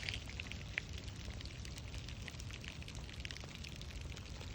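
Rain tapping on a crust of ice over asphalt: many small, irregular ticks over a low steady rumble.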